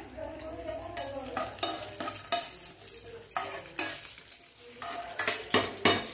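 Cashews frying in ghee in a small pan, sizzling steadily, while being stirred, with several sharp clicks of the utensil against the pan.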